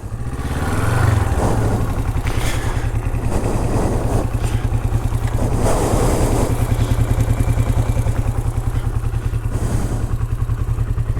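Honda CL450 parallel-twin engine running with a steady pulsing beat. It is revved briefly about a second in, with a few shorter surges later, while the rear wheel sits dropped into a hole and the bike is stuck.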